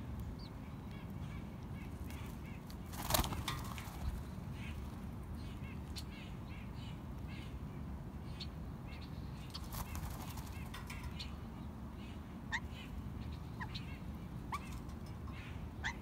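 Scattered short bird calls over a steady low outdoor rumble, with a few clearer single chirps near the end. A brief rustling clatter about three seconds in stands out as the loudest moment.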